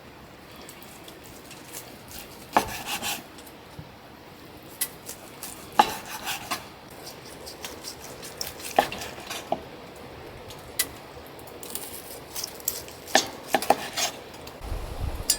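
Dishes and metal cookware being handled, with scattered clinks and knocks: a few single ones, then a quick cluster near the end, over a steady background hiss.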